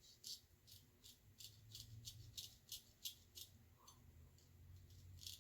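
Faint scraping of a Gold Dollar straight razor across lathered skin in short, quick strokes, about three a second. The strokes pause around three and a half seconds in and start again near the end.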